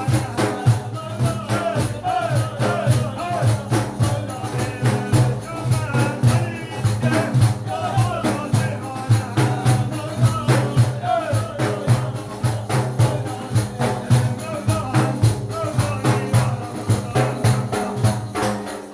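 Sufi devotional praise chant (madih): voices sing over a fast, even beat of tambourine-like frame drums and a steady low hum from the voices. It stops at the end.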